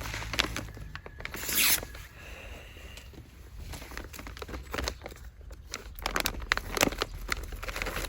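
Handling noises: scattered clicks and scrapes, with a short loud rasp about a second and a half in, over a low steady rumble.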